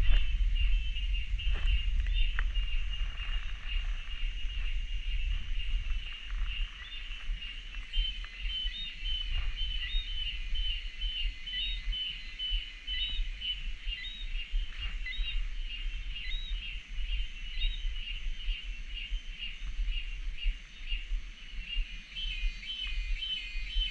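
Cicadas calling in a steady chorus, a high pulsing buzz, with short repeated chirps rising above it from about a third of the way in. A low rumble sits under it at the start and fades after a few seconds.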